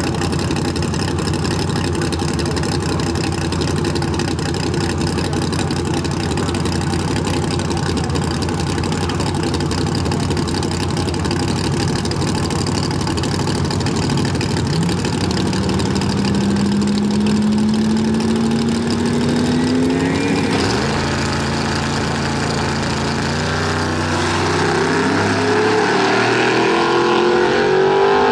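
Drag racing car engines idling steadily. A rising tone runs for about five seconds past the middle, and near the end an engine revs up with its pitch climbing.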